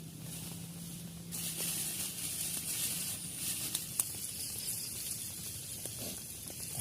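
Rain hissing steadily, growing heavier about a second in, with a single sharp click about four seconds in.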